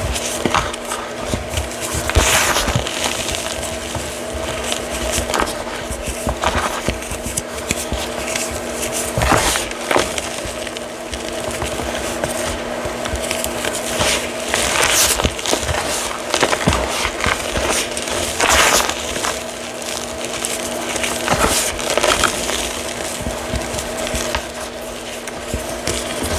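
Reformed chalk being crushed, with gritty crunches and crackles at irregular intervals over a steady background hum.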